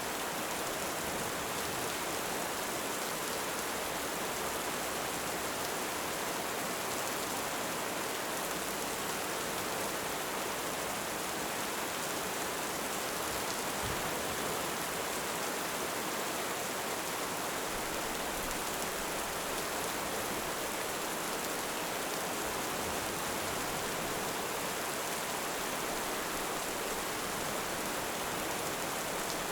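Heavy rain falling steadily, an even hiss that holds at one level throughout, with no thunderclaps.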